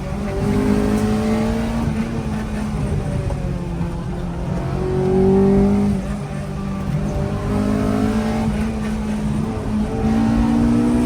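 Honda Integra's VTEC four-cylinder engine accelerating hard, its pitch climbing in several pulls and dropping between them at the gear changes. The pull just past the middle is the loudest.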